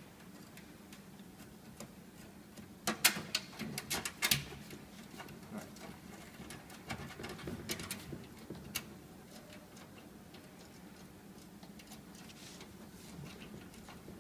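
Clicks and taps of spring-loaded panel screws being hand-tightened on the back panel of an Ionscan 400B trace detector, with a cluster of sharp clicks about three seconds in and a few lighter ticks later, over a faint steady hum.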